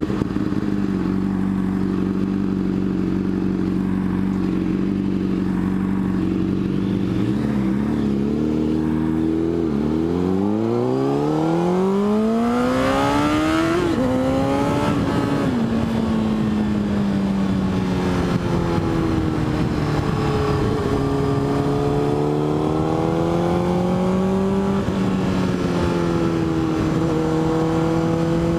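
Motorcycle engine heard from on board the bike, running steadily, then revving up in a long rising pitch about ten seconds in that drops suddenly, then cruising with small rises and falls in pitch.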